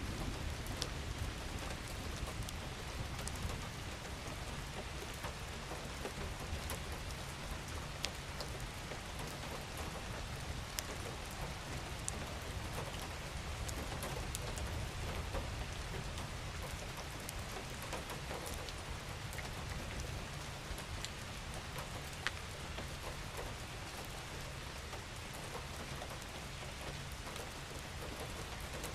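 Steady rain falling, with many individual drops ticking sharply through the hiss over a low, steady rumble.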